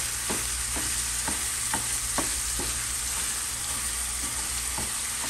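Ground pork sausage sizzling in a frying pan as a plastic meat masher breaks it up. A steady sizzle runs throughout, with soft taps and scrapes of the masher against the pan about twice a second.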